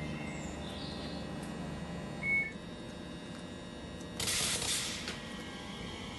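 Railway station ambience over a low steady hum: one short high beep about two seconds in, then a hiss of air lasting about a second.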